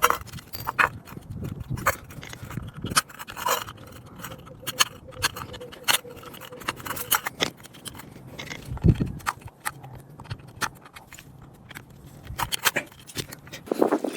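Irregular clicks, knocks and scrapes of tools and small parts being handled on a work surface, with a duller thump about nine seconds in.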